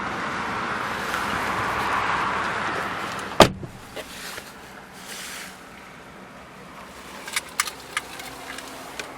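Sounds from a car's interior: a steady hiss for about three seconds, then one sharp thud, followed by a few light clicks.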